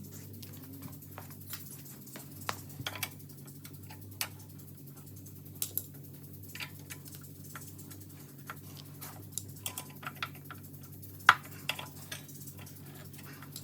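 Irregular light clicks and taps of hand tools and metal hardware being handled while fitting foot pegs to a mini bike, with one louder knock near the end. A steady low hum sits underneath.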